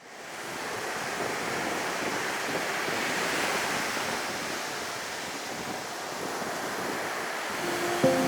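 North Sea surf rushing on the beach, a steady wash of noise with wind, fading in at the start and swelling gently a few seconds in. Music starts near the end.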